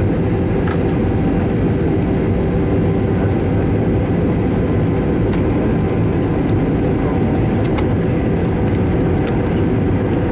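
Steady cabin noise of an Airbus A321-200 in flight on approach: a constant engine and airflow rush with a low hum and a couple of steady tones through it.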